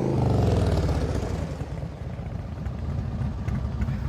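Motorcycle engine passing close, its pitch dropping over the first second or so, then settling into a steady low, uneven rumble.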